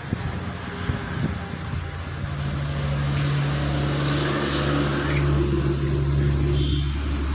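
A steady engine or motor hum that grows louder over the first few seconds, holds a low even tone, then drops away shortly before the end.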